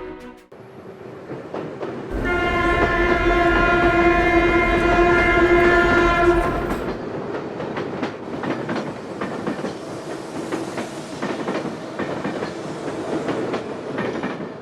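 Train horn sounding one steady chord for about five seconds over a low rumble. The train then rolls on with its wheels clicking over the rail joints.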